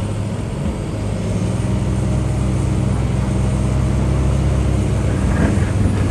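Diesel engine of heavy earthmoving machinery running steadily under a low, even drone, getting a little louder after about a second.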